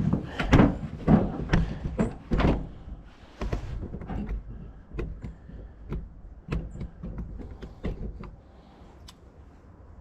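Fifth wheel hitch parts being fitted and adjusted: a run of irregular metal clunks and knocks, heaviest in the first few seconds, then lighter clicks and taps.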